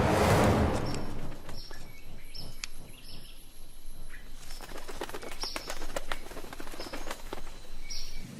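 Hummingbirds giving many short, high squeaky chirps, with the quick whir and flutter of their wings as they chase each other. Orchestral music fades out in the first second.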